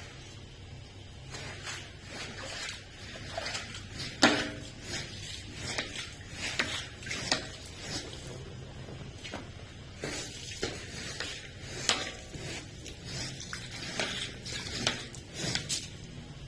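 Irregular wet swishing and knocking from rug-cleaning work, in many short strokes at uneven intervals over a steady low hum.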